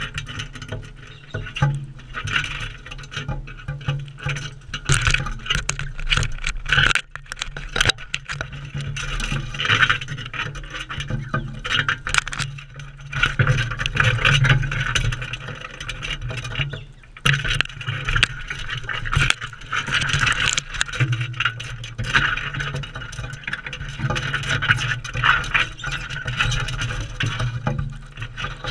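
Crimson rosellas feeding right at the microphone: rapid pecking, tapping and scraping of beaks and feet on the feeder and seed, with brief squeaky sounds.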